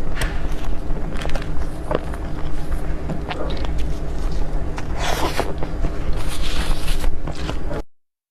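Close-miked eating of desserts: chewing and biting, with many small clicks and two louder, denser crunchy stretches about five and six and a half seconds in, over a steady low hum. The sound cuts off suddenly near the end.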